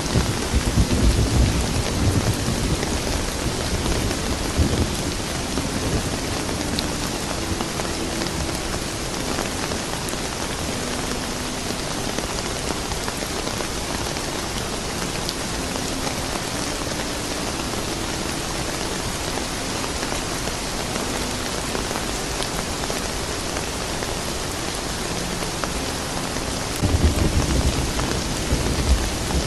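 Steady rain falling, with a low rumble of distant thunder at the start that fades over the first few seconds and returns near the end.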